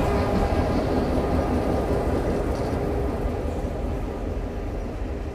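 A departing train's carriages and trailing diesel locomotive rolling past slowly, a steady rumble of wheels and engine that fades gradually over the second half as the train draws away.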